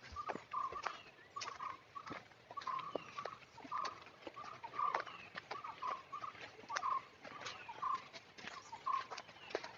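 An animal calling over and over, a short note repeated about twice a second, over scattered sharp clicks and crackles of footsteps on the trail.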